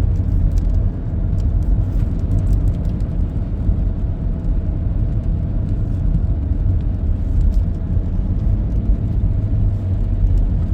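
Steady low rumble of a car, with a faint steady hum above it.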